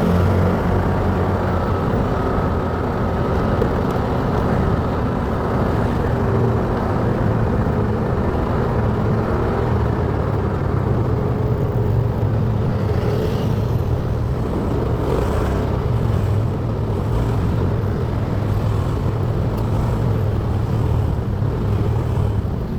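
Motorcycle being ridden along a road: steady engine and road noise picked up by the rider's microphone, with no marked changes.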